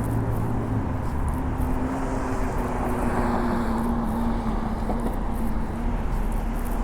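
City street traffic: the steady hum and rumble of a motor vehicle's engine nearby, over the general low roar of the street.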